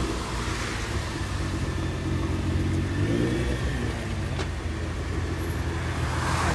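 Nissan GT-R engine revving in two blips, one at the start and another about three seconds in, dropping back to a steady run between them. There is a single sharp click about four and a half seconds in.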